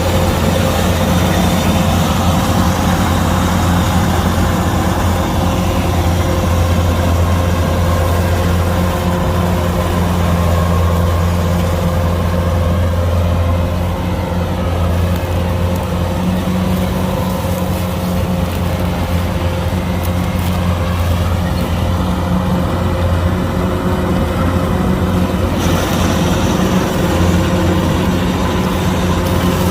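Kubota DC-105X combine harvester's diesel engine running steadily with a deep hum.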